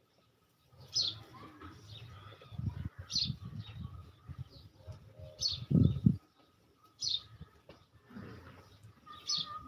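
A bird's short, high call, repeated about every two seconds. Lower rustling and thumping sounds come and go underneath.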